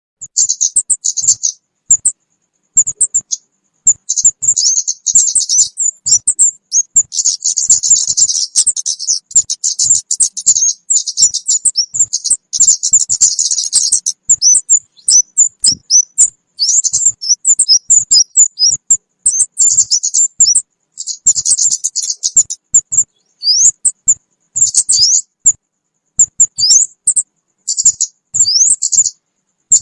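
Lure recording of kemade bird calls: rapid, thin, high chirps and twitters in dense bursts with short gaps, with quick rising notes in the later part.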